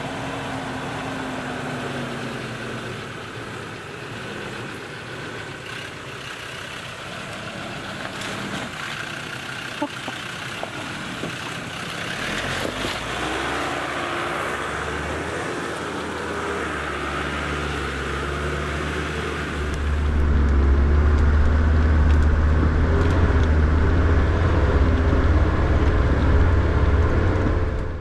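Land Rover Defender's engine labouring as it crawls up a rutted dirt track, growing louder as the vehicle comes closer. Well over halfway through, it gives way to a louder, closer engine sound with a heavy low rumble as the vehicle drives on.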